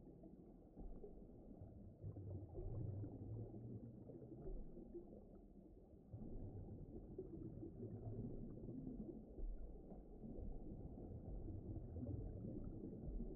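Faint, muffled underwater-style ambience: a dull low rumble with no higher sounds, swelling and ebbing every few seconds.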